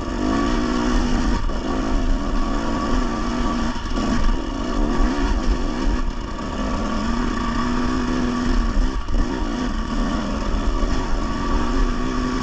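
Dirt bike engine running under load on a rough trail, the throttle opening and closing so the engine note rises and falls, with a few brief drops. A heavy low rumble of wind buffeting the helmet-camera microphone runs beneath it.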